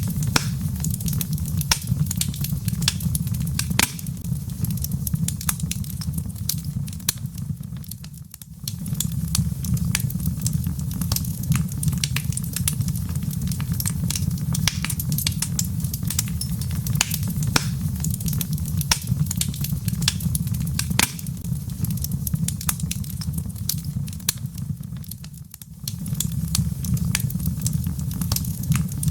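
Wood fire burning in a fireplace: many quick, sharp crackles and pops of burning logs over a steady low rumble. The sound dips briefly twice, about 8 seconds in and near the end, then returns.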